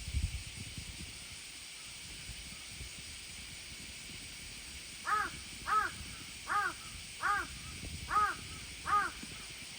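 A crow cawing six times in an even series, about one caw every 0.7 seconds, starting about halfway through, over a steady outdoor hiss. A brief low rumble comes at the very start.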